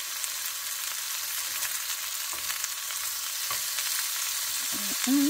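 Chicken pieces frying in a nonstick skillet with a steady sizzle, and a few light taps of a spatula as the pieces are turned.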